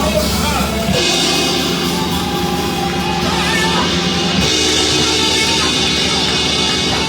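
Loud live band music with a drum kit, playing held chords that change about a second in and again a little after four seconds.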